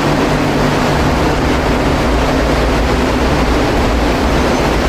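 Car engine running steadily at idle, a low rumble under a wide hiss of noise.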